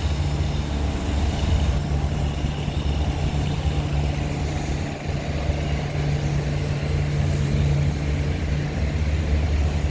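Motor vehicle engine running on a snowy city street, a steady low hum and rumble of traffic.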